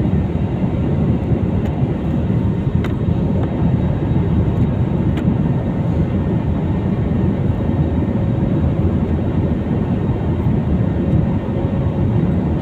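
Steady rumble of an airliner's engines and airflow heard inside the passenger cabin, with a couple of faint ticks.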